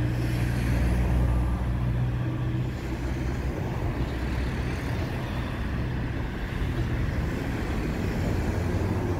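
Intercity and couchette passenger coaches rolling slowly past during a shunting move: a steady low rumble with a low hum that is strongest in the first few seconds.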